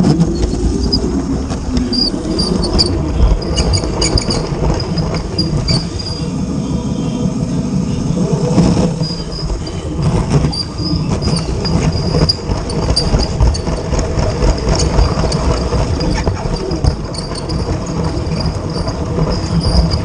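Battery-powered LEGO trains running on plastic track: a steady electric-motor and wheel noise with many small irregular clicks.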